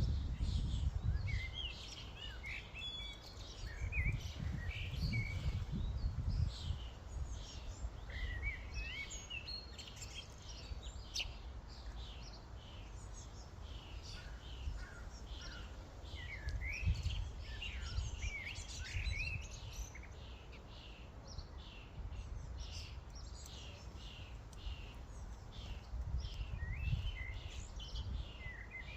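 A flock of common starlings chattering, with dense overlapping chirps, whistles and short downward calls, over a low rumble.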